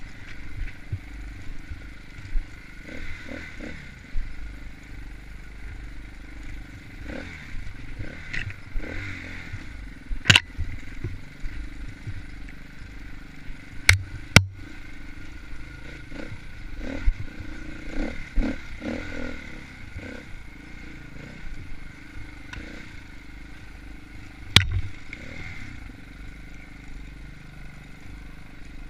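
Off-road dirt bike engine running at fairly steady revs, with scattered clattering and a few sharp knocks from the bike over rough ground: a pair about halfway through and another near the end.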